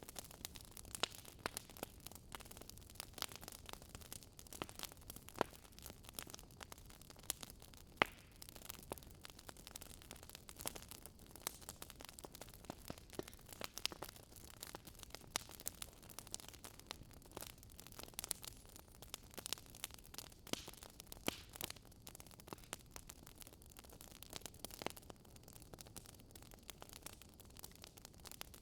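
Wood fire crackling: irregular sharp pops and snaps over a soft steady hiss, one louder snap about eight seconds in.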